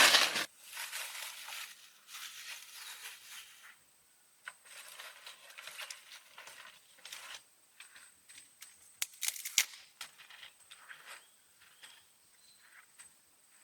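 Rustling, crinkling handling noises in short stretches, with a cluster of sharp clicks about nine seconds in.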